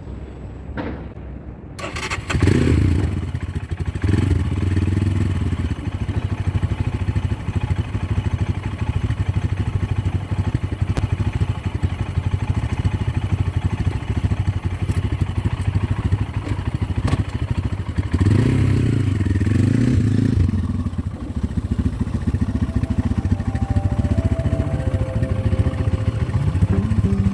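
Motorcycle engine running under way, mostly steady, with the revs rising and falling a couple of seconds in and again about two-thirds of the way through.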